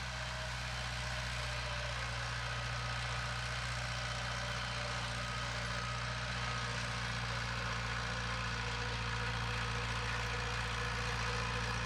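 Heavy diesel engine of earthmoving equipment running steadily at an even speed, a deep hum with a layer of hiss over it.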